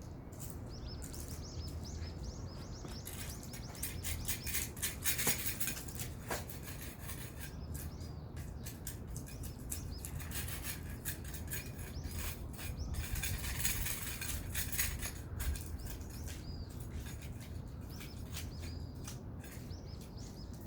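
Rasping scrapes of a hand tool over a rooftop's peeling waterproof coating, coming in two spells of repeated strokes, with birds chirping throughout.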